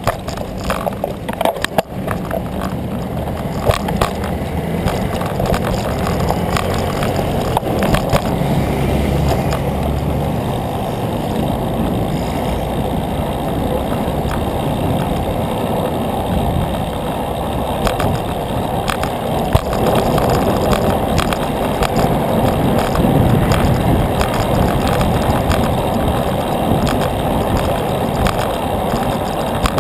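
Steady rushing wind and road noise from a bicycle in motion, with scattered clicks and rattles from the bike. A low hum runs under it for the first ten seconds or so.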